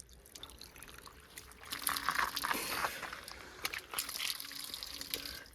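Water pouring and splashing, louder about two seconds in, with scattered clicks.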